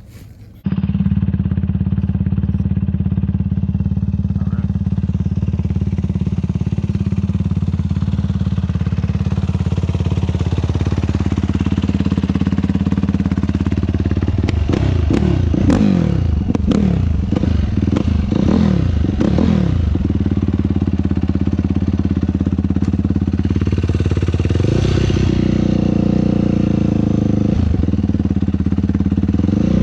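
Yamaha YFZ450 sport quad's single-cylinder four-stroke engine at riding speed on a rough track. It starts suddenly, holds a steady drone, then revs up and down repeatedly with knocks and clatter between about 14 and 20 seconds, and rises again near the end.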